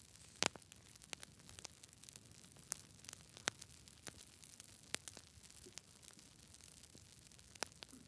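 Wood fire crackling: irregular sharp pops and snaps over a faint steady hiss, the loudest pop about half a second in.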